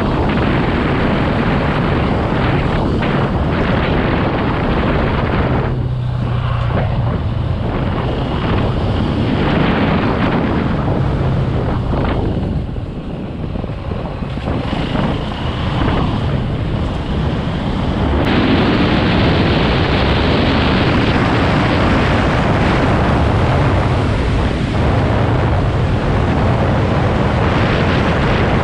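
KTM EXC450 enduro motorcycle's single-cylinder four-stroke engine running while riding, with wind buffeting the camera microphone. The sound drops back for a few seconds near the middle, then comes back louder and stays up.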